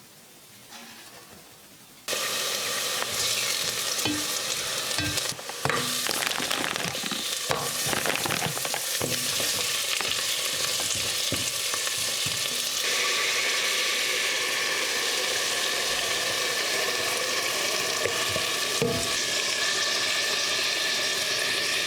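Food sizzling in a hot frying pan as it is stirred, with scattered knocks of the utensil against the pan. The sizzle starts suddenly about two seconds in and then holds steady.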